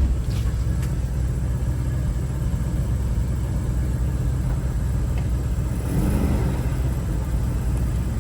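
Truck engine running steadily at low speed, a low rumble that swells slightly about six seconds in.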